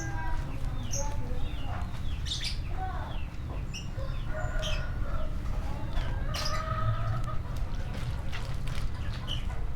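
Chickens clucking, with small birds chirping, over a steady low rumble.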